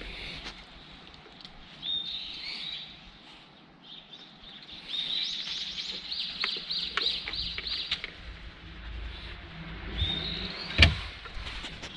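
Bird calls: short, high chirping notes, a few about two seconds in, a rapid run of about a dozen in the middle, and more near the end. A single sharp click comes shortly before the end.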